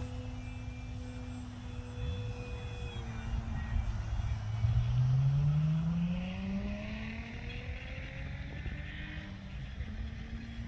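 Electric RC model airplane's motor and propeller running with a steady tone, whose pitch rises over about two seconds midway, where it is loudest.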